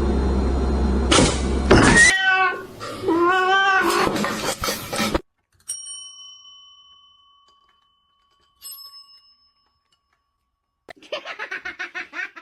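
A cat meowing in a couple of drawn-out calls after a burst of rough noise, then a small bell rung twice, each ring fading away slowly. A quick run of pulsing cries starts near the end.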